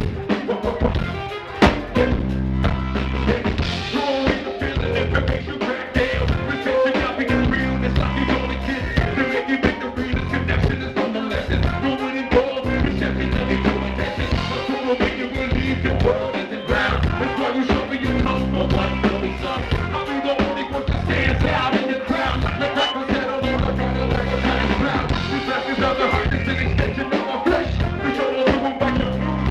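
A live rock band playing, with a heavy bass line of long low notes and a drum kit keeping a steady beat under guitar.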